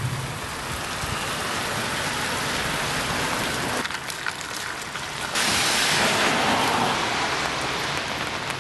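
Steady rain falling, growing heavier and brighter about five and a half seconds in.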